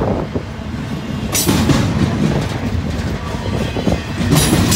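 Double-stack intermodal container train passing: a steady heavy rumble of the loaded well cars, with wheels clacking over the rails. Two sharper clattering bursts about three seconds apart.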